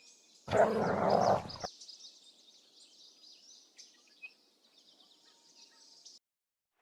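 Small birds chirping and twittering faintly in the background. About half a second in there is a loud, rough sound lasting about a second.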